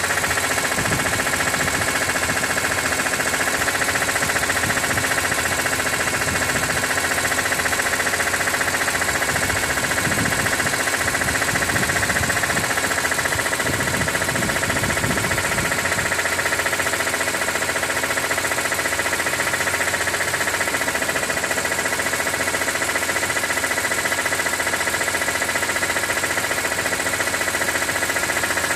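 BMW E46 M3's S54 straight-six engine running steadily, carrying the abnormal engine noise that shows up once the oil is above 80 °C; the owner wonders whether it might be the oil pump.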